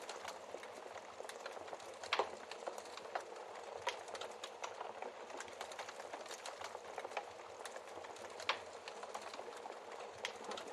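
Wood fire burning in a fireplace, crackling steadily with frequent small snaps and a few louder pops of the logs.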